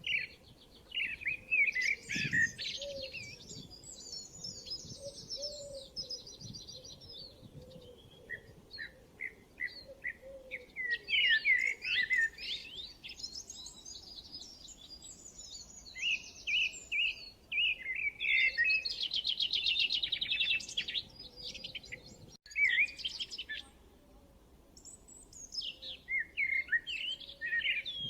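Several birds chirping and singing in overlapping bursts: strings of short repeated high chirps mixed with fast buzzy trills, coming and going in waves with short lulls between.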